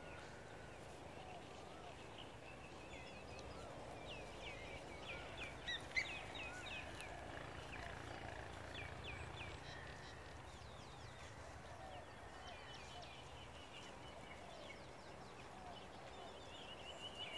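Small birds chirping in short, quick calls, several in a row at a time, faint over a steady background hiss; a single sharp click about six seconds in.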